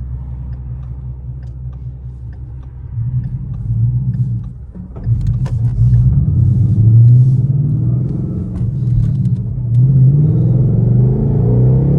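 Ford Mustang GT's 5.0 Coyote V8, with an SR Performance axle-back muffler delete, pulling away and accelerating hard. The exhaust climbs in pitch and loudness with rising revs, with a brief dip near five seconds in, like a gear change.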